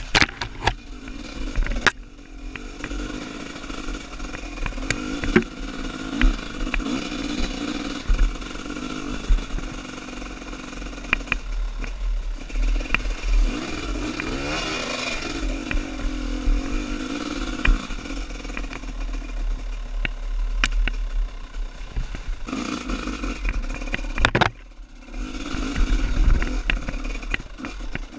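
Trail dirt bike engine running under load, its pitch rising and falling with the throttle, with scattered knocks and clatter. The engine sound drops off briefly about three-quarters of the way through.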